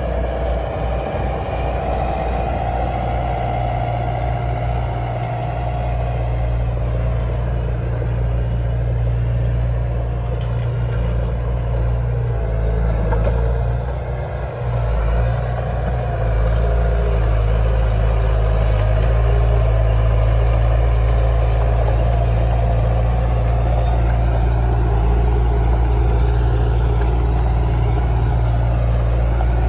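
Diesel engine of heavy earthmoving machinery running steadily, with a brief dip about halfway through and then a louder, deeper hum.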